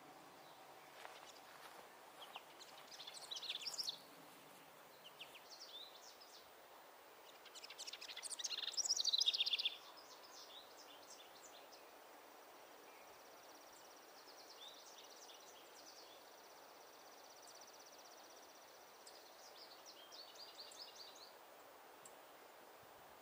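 Wild songbirds singing: two louder chirping song phrases, each building up and stopping abruptly, about three and nine seconds in. These are followed by a long, high, thin trill lasting several seconds and a few softer phrases near the end, over faint outdoor background noise.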